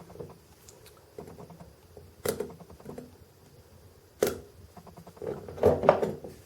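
Small hard objects being handled on a work surface: a sharp click about two seconds in, another about four seconds in, then a short cluster of knocks and clatter near the end.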